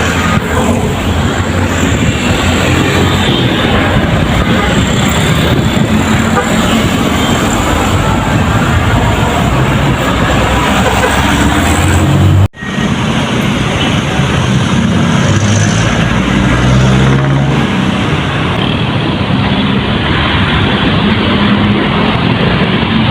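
Loud, busy road traffic: trucks and other vehicles running past, engine drone mixed with tyre and road noise. The sound cuts out abruptly about halfway through and picks straight up again.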